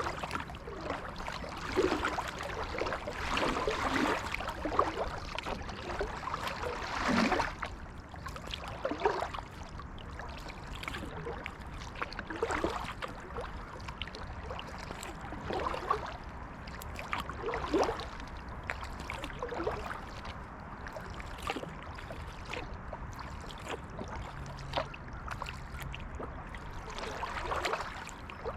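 Kayak paddle strokes dipping into and pulling through the water, a splash and swish every second or two, with water dripping and gurgling against the hull. The strokes come more thickly in the first several seconds.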